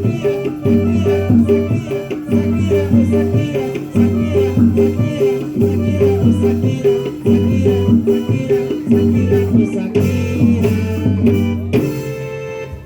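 Music played on drums, pitched percussion and a rattle, in a repeating pattern of about one beat every 0.8 seconds. The pattern breaks off near the end.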